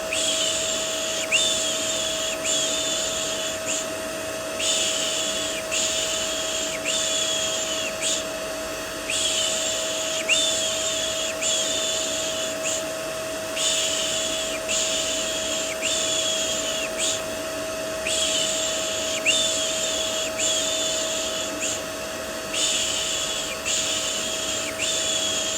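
Vacuum cleaner running steadily with a constant hum, overlaid with repeated baby-soothing 'shh' shushing that comes in runs of a second or two with short breaks between them.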